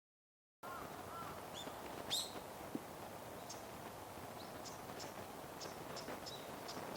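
Wild small birds calling: a scattering of short, high chirps and ticks, one louder call about two seconds in, over a steady low background rumble. The sound cuts in abruptly just after the start.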